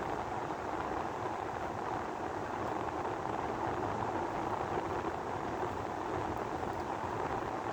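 Steady rushing noise of strong sandstorm wind, even and unbroken with no gusts or separate events.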